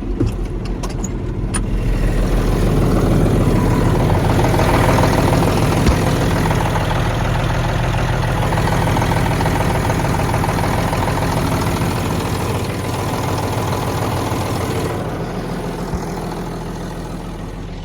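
John Deere 8640 tractor's turbocharged six-cylinder diesel idling steadily, still warming up a minute or so after a cold start at around 30 °F without ether or a block heater. It grows louder about two seconds in and eases off again near the end.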